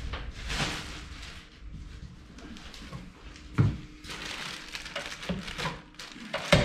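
Packaging and machine parts being handled during the unboxing of a belt grinder: rustling and scraping, with a sharp knock about three and a half seconds in and another near the end.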